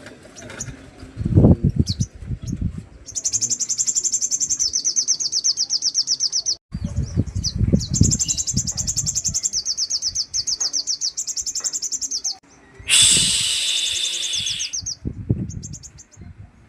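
Sogon bird giving harsh, rapid rattling 'tembakan' calls: two long runs of fast, evenly spaced high notes, then a shorter, rougher burst near the end. Low thuds sound underneath at times.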